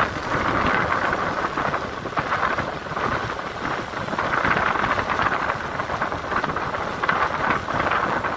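Rushing water noise, loud and steady, swelling and easing about four times.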